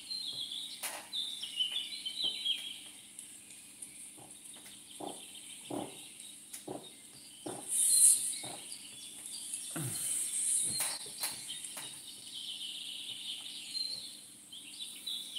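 Songbirds twittering and chirping, mostly in the first couple of seconds and again near the end, with scattered light clicks and knocks throughout.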